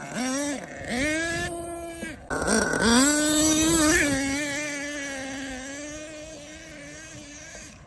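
HPI Savage X 4.6 nitro monster truck's small 4.6 cc nitro engine, revved up and down several times and then held at a high, buzzing whine. Over the last few seconds it slowly drops in pitch and fades.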